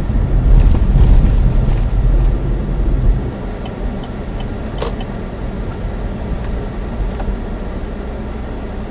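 Chevy Spark driving, engine and road noise heard from inside the cabin: a low rumble, loudest for the first three seconds, then quieter and steady. A single sharp click about five seconds in.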